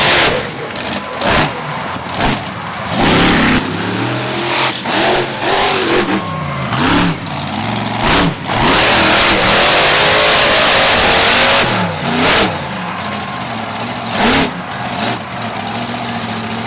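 Monster truck engine revving hard in repeated bursts, its pitch climbing and falling, with the throttle held wide open for about three seconds near the middle.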